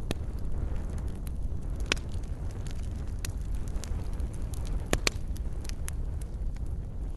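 Wood fire burning in a fireplace, with a steady low rumble of flame and scattered sharp crackles and pops, two of them louder, about two and five seconds in.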